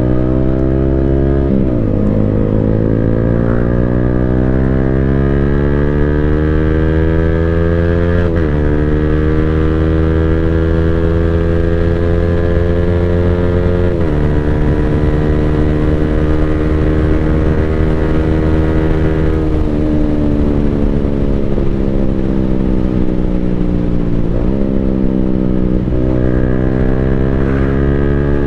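Yamaha Sniper 155R's single-cylinder engine running through an Akrapovic full-system exhaust, accelerating and shifting up through the gears with the quick-shifter: the engine pitch climbs, then drops sharply at each upshift, three times. From about two-thirds in the pitch falls as the bike slows, with short rises at each downshift.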